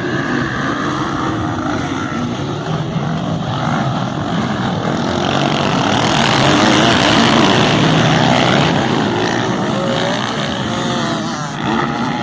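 Motocross bike engines racing and revving, the pitch rising and falling with the throttle. The sound swells to its loudest about halfway through as the bikes pass close, then eases off.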